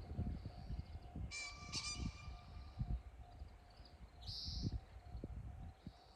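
A pheasant gives a short, harsh two-part crow about a second in, over low thuds and rumble of handling or wind on the microphone. A brief high chirp follows a few seconds later.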